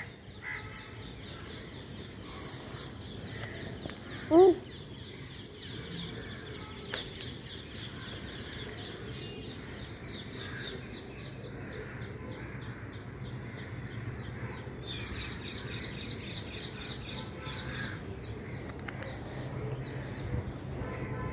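Small birds chirping in quick high-pitched runs, with one short, loud call about four seconds in.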